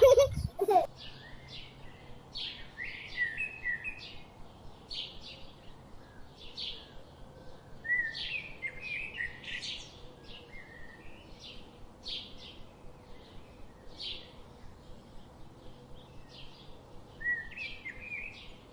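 Birds chirping and calling in quick, short notes, several a second, with a few louder calls about a third of the way in and again near the end.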